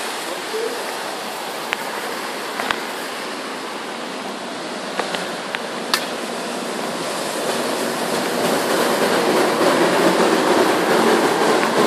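Heavy rain falling in a steady hiss during a thunderstorm, growing louder over the last few seconds, with a few sharp ticks scattered through it.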